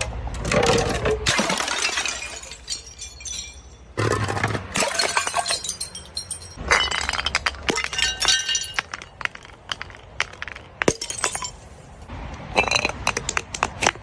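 Glass bottles smashing, about five separate breaks a few seconds apart, each followed by high tinkling and crunching of shards.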